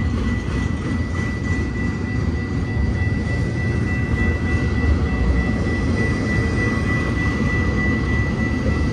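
Deep, steady rumble of a BNSF intermodal freight train's diesel locomotives approaching the grade crossing, with a thin steady high tone over it.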